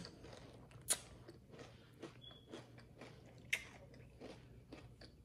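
A person chewing crunchy granola in almond milk: faint, irregular crunches, with sharper crunches about a second in and again past three seconds.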